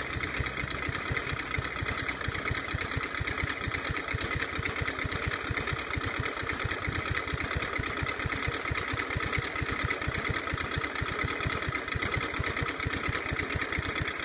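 Road Hopper Type 5 motorcycle's S&S Evolution-style V-twin engine, fitted with a Mikuni HSR carburettor, idling steadily with an even, rhythmic pulse.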